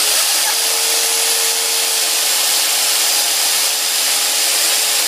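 Chainsaw running steadily, an even loud whine and hiss.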